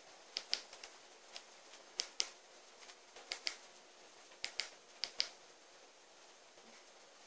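Fire in a fireplace crackling: sharp, irregular pops, often in close pairs, over a faint steady hiss, with the pops thinning out after about five seconds.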